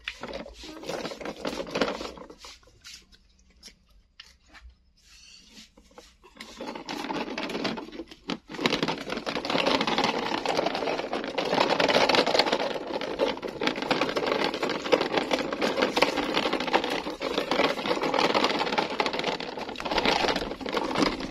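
A toy dump truck's small electric motor and plastic gears buzzing with a fast rattle. The buzz starts about a third of the way in and runs on steadily, with a few scattered clicks before it.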